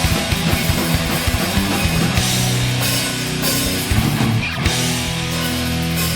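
Heavy metal song: distorted electric guitars holding low riffs over fast drum-kit hits.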